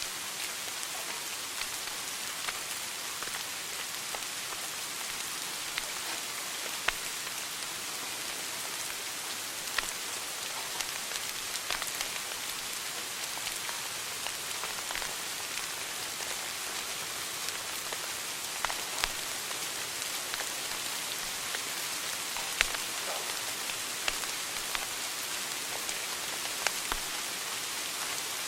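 Wood fire burning in a fireplace: a steady hiss with irregular sharp crackles and pops, a few of them louder.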